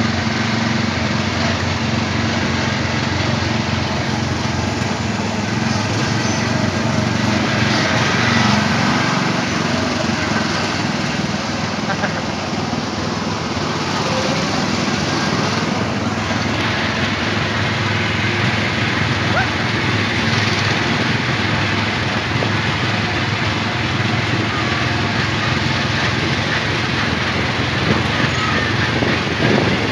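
Small single-cylinder petrol engine of an Autopia ride car running steadily under way, a lawn-mower-like drone.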